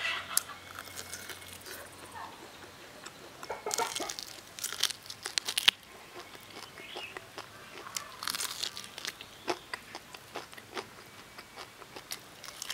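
Crisp deep-fried pork ribs being bitten and chewed: two bouts of crackly crunching, the first a few seconds in and the second past the middle.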